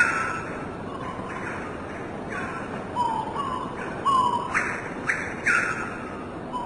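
Bird calls: short, repeated notes that slide downward in pitch, coming several at a time in uneven clusters over a steady hiss.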